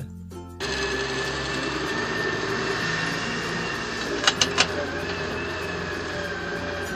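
A steady engine-like drone starts about half a second in, with three quick clicks about four seconds in.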